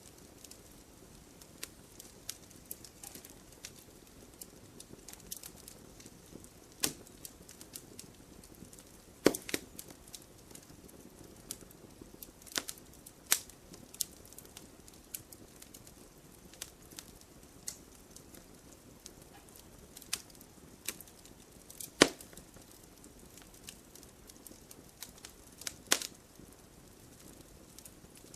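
Wood fire crackling: a soft steady hiss under frequent small snaps, with a few louder pops about a third of the way in, near 22 seconds and again near 26 seconds.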